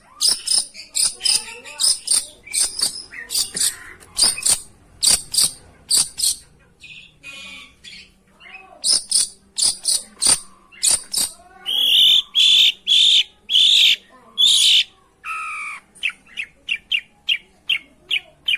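Long-tailed shrike (pentet) song: a rapid series of short, sharp, high notes. About two-thirds of the way through comes a louder run of longer notes, followed by quicker short notes.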